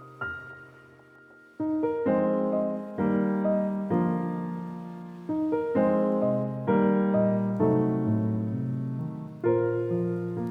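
Background piano music: a lone note fades at first, then gentle chords begin about one and a half seconds in, each struck and left to ring.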